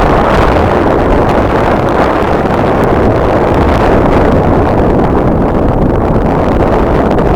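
Strong wind buffeting the camera microphone: a loud, steady rushing roar with a choppy low rumble.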